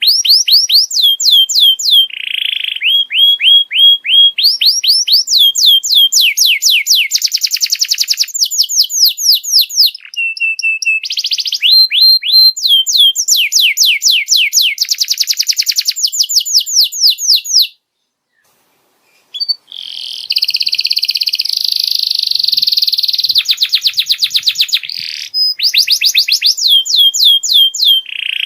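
Domestic canary singing a fast song of trilled phrases: each phrase a rapid run of identical falling notes, switching to a new phrase every second or two, some buzzy. The song breaks off for about a second and a half a little past the middle, then goes on.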